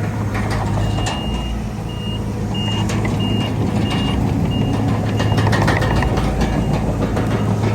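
Heavy machine's reverse alarm beeping, starting about a second in with one longer beep and then repeating about every 0.6 s, over a steadily running diesel engine.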